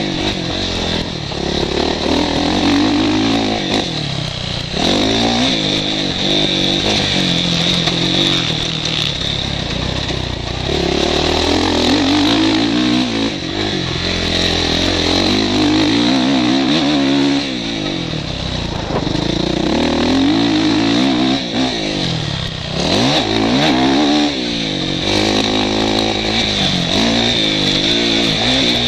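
Motocross bike engine heard from the rider's helmet, revving hard and backing off over and over as it accelerates and shifts around the track. A steady high hiss of wind runs over the microphone throughout.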